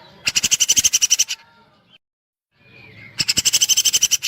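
A cucak jenggot (grey-cheeked bulbul) sings fast, rattling bursts of rapidly repeated high notes, woodpecker-like "tembakan" runs at about a dozen notes a second. One burst is heard near the start and a second begins about three seconds in.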